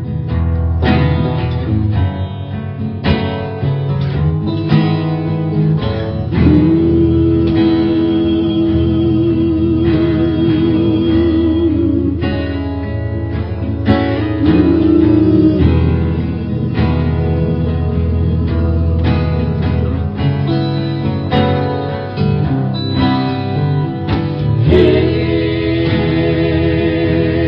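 Live acoustic folk band playing an instrumental passage: strummed and picked acoustic guitars, with a long wavering held note over them from about seven seconds in and again near the end.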